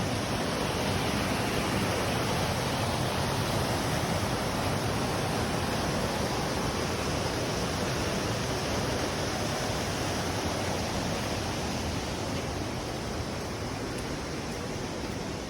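Minoh Falls' water falling in strong flow: a steady, unbroken rush of water.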